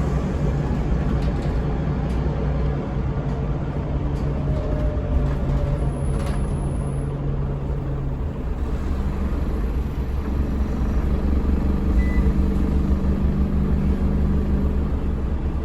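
Scania DC9 nine-litre five-cylinder diesel of a Scania L94UB bus running under way, heard from inside the bus. The engine note changes about eight seconds in.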